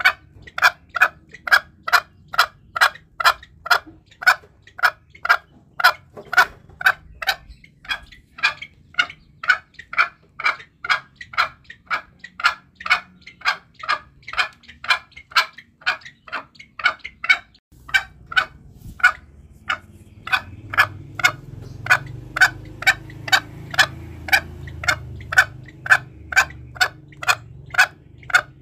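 Green junglefowl calling in a fast, even series of short clucks, about two a second: a lure call for hunting the bird. A low rumble joins for several seconds in the second half.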